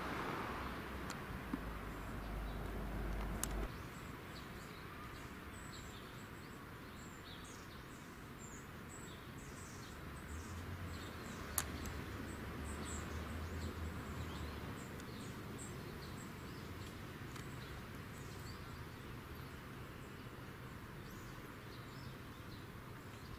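Woodland ambience: many brief, high chirps of small birds calling over a steady hiss. A low wind rumble on the microphone stops abruptly a few seconds in, and there are a few sharp clicks.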